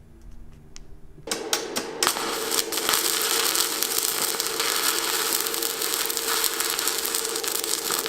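Electric arc welder welding a steel sheet onto the furnace lid: a few stuttering strikes about a second in, then a steady crackling buzz with a constant hum.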